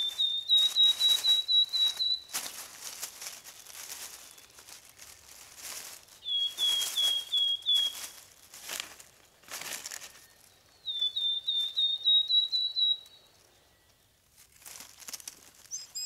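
A small bird calling in three runs of quick, high chirps, about five a second, with brief rustling of dry leaves and twigs between them.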